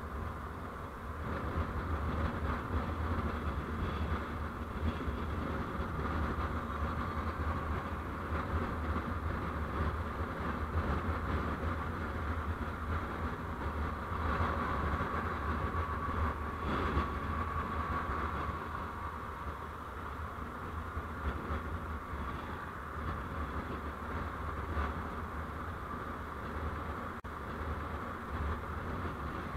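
Steady running noise of a vehicle on the move: a low engine and road rumble with tyre hiss, swelling a little about halfway through.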